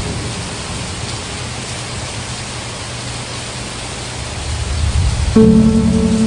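Steady hiss of rain, with a low rumble of thunder swelling near the end. Sustained music notes come in about five seconds in.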